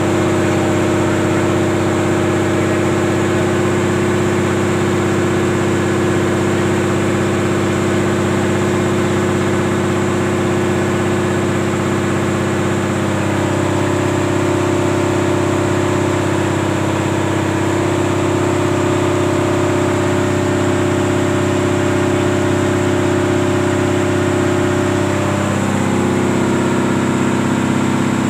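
Motorcycle engine running steadily while riding, its pitch shifting about halfway through and dropping again near the end as the engine speed changes.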